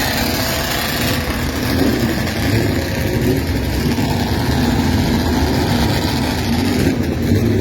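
Vintage motorcycle engine running, its pitch rising and falling as it is blipped, over a steady low rumble.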